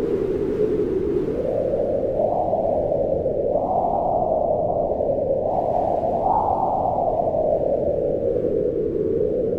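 Wind blowing with a hollow moaning tone. Its pitch climbs over the first few seconds, peaks twice, and sinks back near the end.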